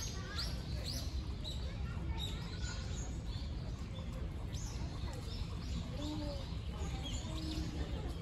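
Small birds chirping again and again in short, high, falling notes over a steady low background rumble.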